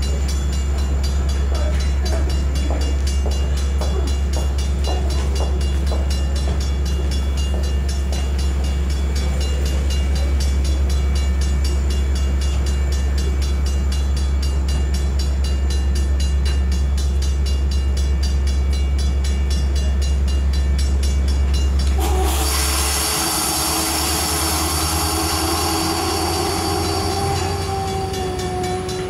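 Metra commuter train standing at the platform, its equipment giving a steady low hum. About 22 seconds in, a sudden hiss of air comes in together with a distant locomotive horn, held for several seconds with its pitch sagging slightly, as the train gets ready to depart.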